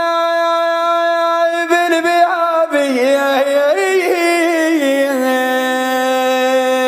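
A man chanting in Iraqi lament style: he holds one long note, breaks into a wavering ornamented run about two seconds in, then settles on a lower held note that stops near the end.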